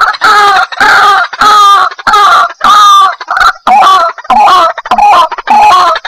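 White-breasted waterhen (ruak-ruak) calling: loud, harsh repeated calls, about two a second.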